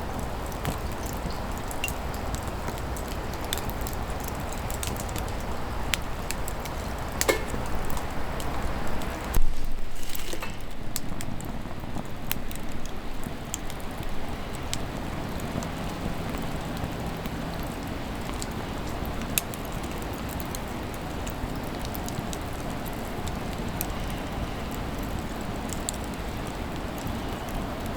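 A wood fire burning, with the steady hiss of the flames and scattered sharp crackles and pops from the burning wood; a louder burst of pops comes about a third of the way in.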